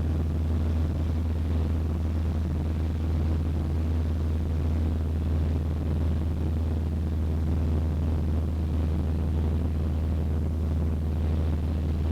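Cessna 152's four-cylinder Lycoming O-235 engine and propeller droning steadily at cruise power, heard from inside the small cockpit as a constant low hum.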